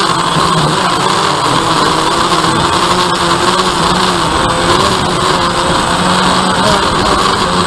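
DJI Phantom quadcopter's electric motors and propellers whirring steadily in flight. Several tones drift slowly up and down as the motors change speed.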